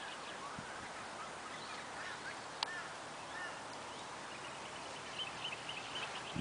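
Faint bird calls in the background: scattered short chirps and a quick run of chirps near the end, over a low steady outdoor hiss, with one sharp click about two and a half seconds in.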